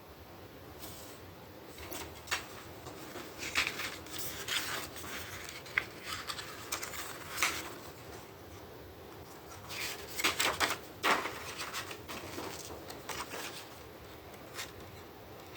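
Handling noise from a plastic DVD case: scattered clicks, taps and rubbing, bunched a few seconds in and again about two-thirds of the way through.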